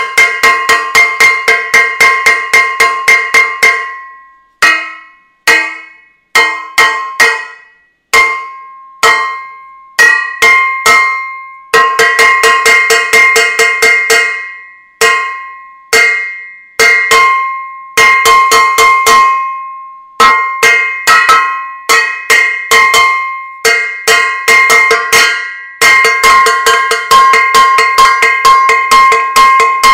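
A metal saucepan being banged over and over, each hit a ringing clang. The hits come in fast runs, with slower single strikes in between, as in casserolade protest banging.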